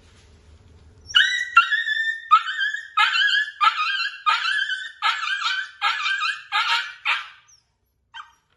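A puppy crying out in a fast run of about ten high-pitched yelps, one after another, then a single short yelp near the end.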